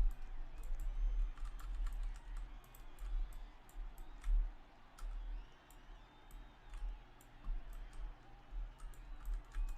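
Irregular light clicks and taps, like typing, over a steady low rumble.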